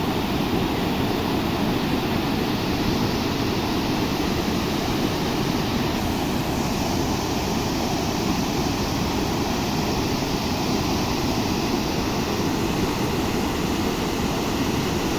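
Swollen, fast-flowing river water rushing steadily and loudly: a river in flood.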